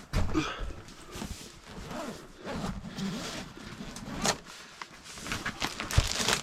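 Rustling, scraping and a few sharp knocks from bags and gear being handled, with the sharpest knocks about four and six seconds in.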